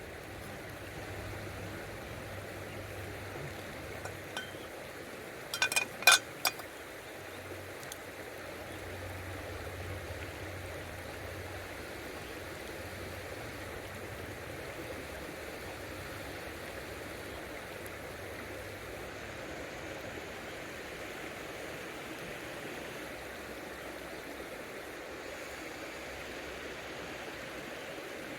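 River water flowing steadily, with a quick cluster of ringing metallic clinks about six seconds in, as of stainless cookware or utensils knocking together.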